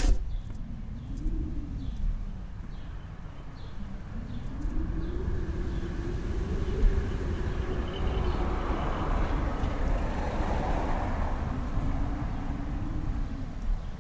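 Snowstorm wind gusting with a deep rumble and a low moaning howl that rises and falls, swelling about four seconds in. A sharp click right at the start.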